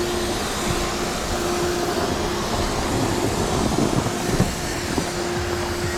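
Snowmaking gun running: a steady, loud hiss of air and water spray over a low fan hum that drops out for a moment and comes back.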